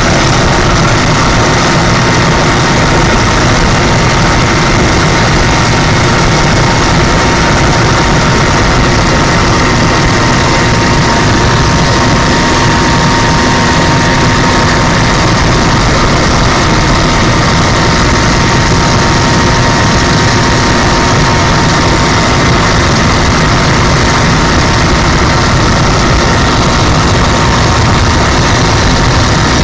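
Helicopter in flight: a loud, steady drone of engine and rotor, with a constant whining tone over it.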